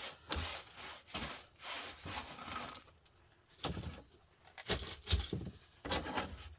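Small pieces of scrap copper and aluminium being handled and set down: irregular rustling and light knocks, stopping briefly twice.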